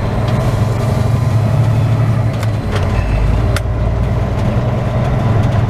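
Semi truck's diesel engine running at low speed, heard from inside the cab as a steady low drone, with a couple of light clicks about two and a half and three and a half seconds in.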